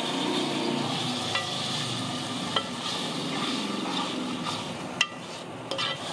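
Chopped tomatoes sizzling in hot oil in an aluminium pot while a wooden spoon stirs and scrapes through them, with a few sharp clicks of the spoon against the pot.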